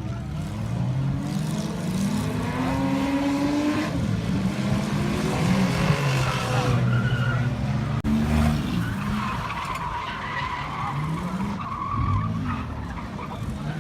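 A pack of stock car engines running hard on a short oval track. Several engine notes overlap, rising as the cars accelerate and falling away as they pass.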